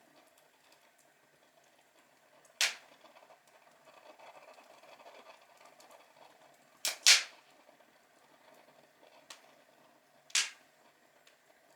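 Outdoor log fire crackling softly, broken by sharp pops from the burning wood: one about two and a half seconds in, a quick double pop near seven seconds, a small one after nine seconds and another loud pop past ten seconds.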